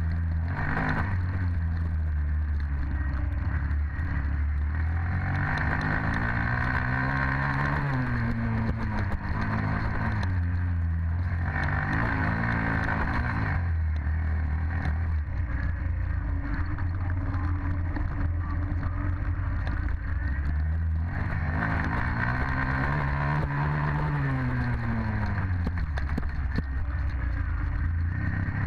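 Dirt bike engine running, its pitch rising and falling several times as it accelerates and eases off.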